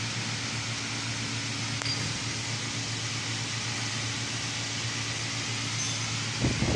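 A steady mechanical hum with an even hiss, like a fan running. Near the end a louder, rougher rumble starts.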